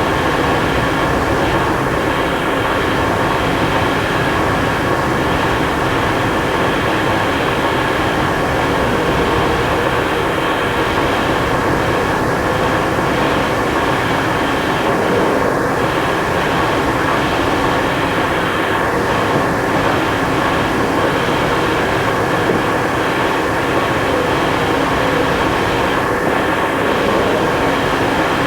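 Experimental noise-music recording: a dense, steady drone of hum and hiss layered with many held tones, unchanging in loudness.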